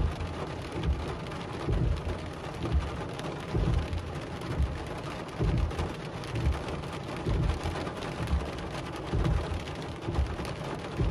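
Rain drumming steadily on a car's roof and windshield, heard from inside the cabin, with a soft low thump about once a second.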